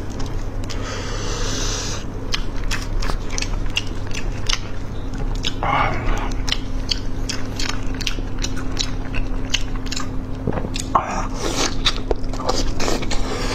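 Close-up mouth sounds of eating soft, sauce-glazed braised meat: wet smacking and chewing with many quick clicks and some biting. A steady low hum runs underneath.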